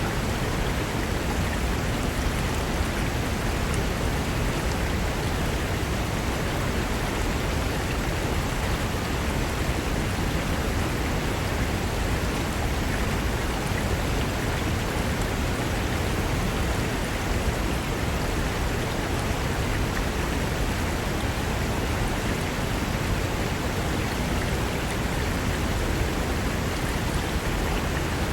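Mountain river rushing over rocks: a steady, even rush of water with no change.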